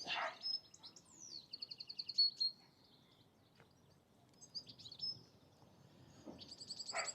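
Small songbirds singing: high chirps and a quick trill of rapidly repeated notes about a second and a half in, with another trill starting near the end.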